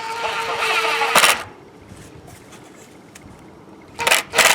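Power drill driving a 2½-inch exterior wood screw through a pre-drilled hole into a 2x2 frame board. It runs with a steady whine that stops with a knock about a second in as the screw seats, then a couple of sharp knocks near the end as the next screw is started.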